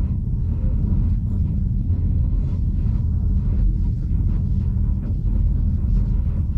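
Train running along the track: a steady low rumble with faint irregular knocks over it.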